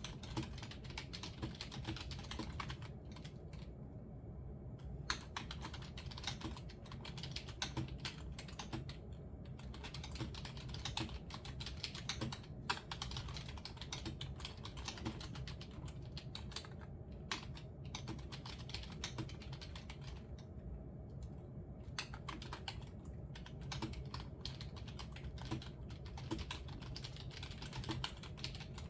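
Typing on a computer keyboard: quick runs of keystrokes broken by a few short pauses, over a steady low hum.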